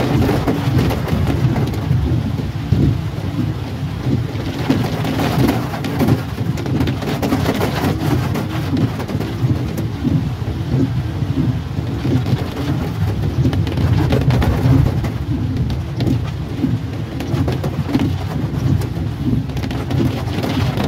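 Heavy rain pattering on a car's roof and windscreen, heard from inside the cabin, over a low steady rumble.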